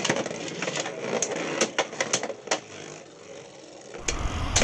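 Sharp plastic clicks and clatter of Beyblade tops and launchers being handled and reset between rounds. About four seconds in, the tops are launched and start spinning and grinding in the stadium with a sudden noisy rise.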